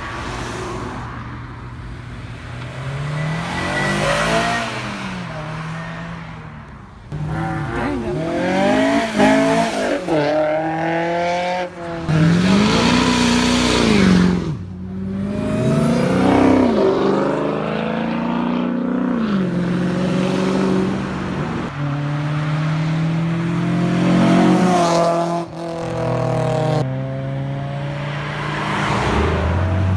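Vehicles accelerating hard past one after another, engines revving up through several gear changes. Near the middle, a diesel flatbed pickup passes close under heavy throttle, smoke pouring from its exhaust.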